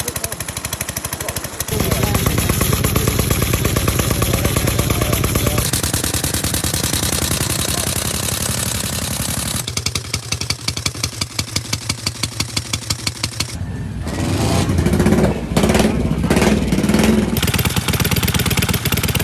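Early motorcycle engines running one after another, each a rapid, even firing beat, with the sound changing abruptly several times. Near the end an engine is revved up and down, the loudest part.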